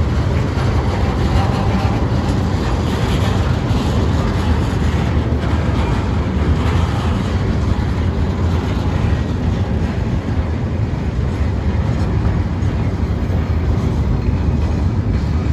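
Freight train of tank wagons rolling past, a steady, continuous noise of wheels on rails.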